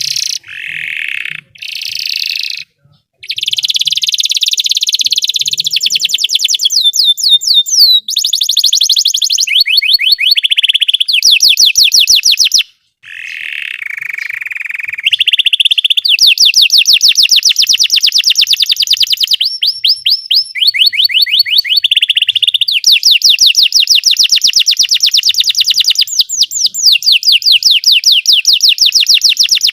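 Belgian canary singing a long song of rapid trills and rolls, very fast repeated notes that change to a new pattern every second or few. There is a short pause about halfway, then a lower, buzzier phrase before the fast trills resume.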